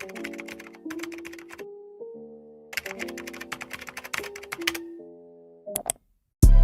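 Computer keyboard typing in several quick bursts of clicks over soft background music. Near the end it all stops briefly, then a louder music track starts.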